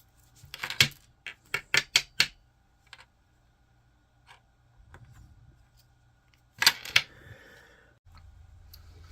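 Small 3D-printed plastic figure parts being handled: a quick run of sharp clicks and taps in the first couple of seconds, a few faint ticks, then another loud cluster of clicks about two-thirds of the way through.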